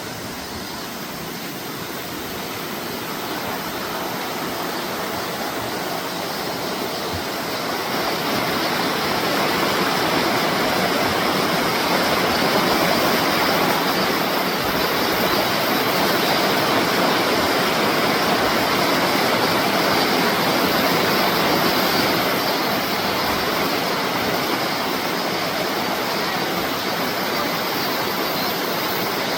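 Mountain stream water rushing and splashing over rocks in a steady wash of noise, growing louder over the first eight seconds or so and then holding steady.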